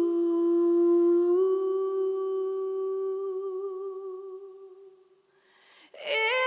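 A singer's long hummed notes in the song's backing track, held at a steady pitch with a small step up about a second and a half in, fading away by about five seconds. The next sung phrase starts near the end.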